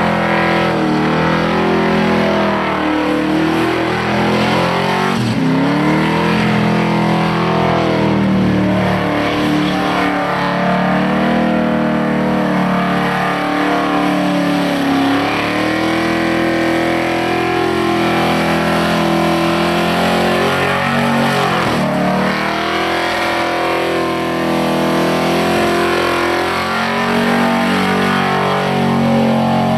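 Ford XF Falcon's 351 V8 held at high revs through a sustained burnout, the pitch swinging up and down as the throttle is worked, over the hiss of spinning rear tyres. The revs drop sharply twice, once about a sixth of the way in and again about three quarters through.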